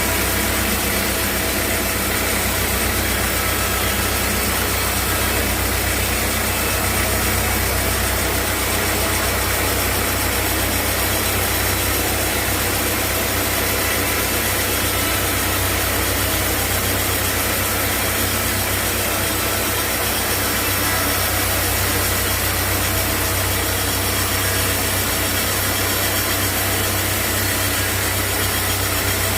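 Sawmill machinery running steadily, a constant low hum under an even hiss.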